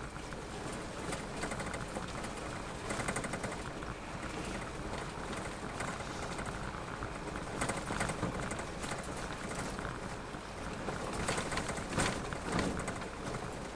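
Vehicle driving on a rain-soaked road: steady tyre and road hiss with water spattering against the vehicle, in several louder crackly spells.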